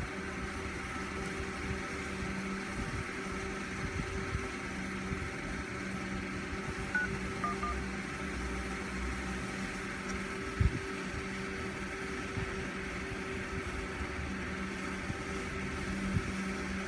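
Steady electrical hum, with a few faint short beeps about seven seconds in and a single knock about ten and a half seconds in.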